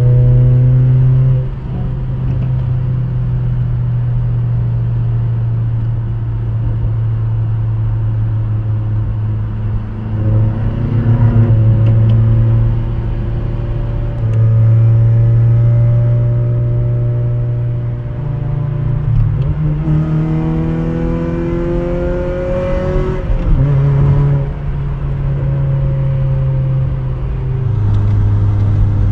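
Modified 2011 Mazda 3's 2.5-litre four-cylinder with a Magnaflow cat-back exhaust, heard from inside the cabin, droning at highway speed. The pitch rises and falls several times with the throttle, climbing most clearly about twenty seconds in.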